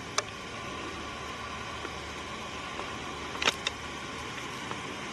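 Steady hiss of the outdoor background with two brief sharp snaps or crackles, one right at the start and one about three and a half seconds in.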